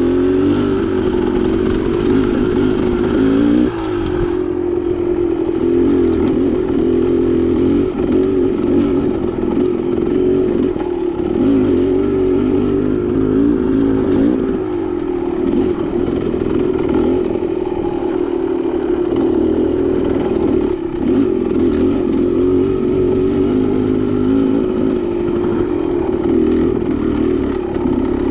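Dirt bike engine running continuously under load on a rough single-track trail, its note rising and falling with the throttle and dropping off briefly several times.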